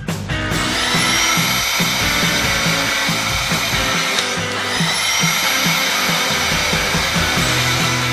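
Background music with a steady beat, over a motor-like whirring sound effect that spins up in pitch about half a second in and again midway.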